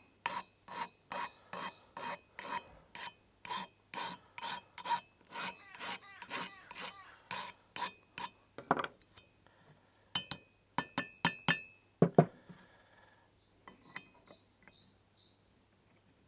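Hand file scraping across a metal part in even strokes, about two a second, filing a small lead-in ramp so the key will slide into place. The filing stops after about eight seconds, followed by a few metallic clinks and a knock.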